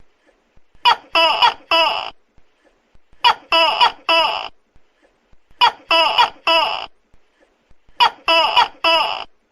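Tokay gecko calling loudly: groups of three short 'to-kek' syllables, repeated four times at an even spacing of about two and a half seconds, with silence between.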